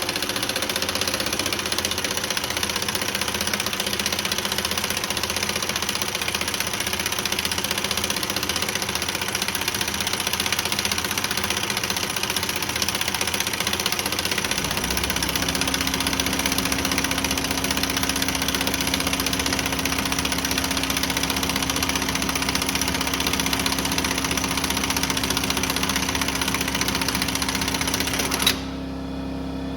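Impact wrench hammering continuously as it drives the forcing screw of a clamshell bearing puller, drawing a bearing off a Dana 70 differential carrier. A steady lower hum joins about halfway, and the hammering stops suddenly near the end while the hum continues.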